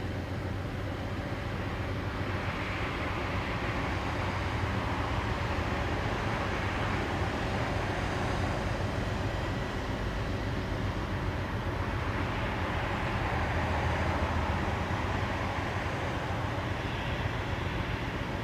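Steady low rumble of vehicle noise that swells twice and eases off again.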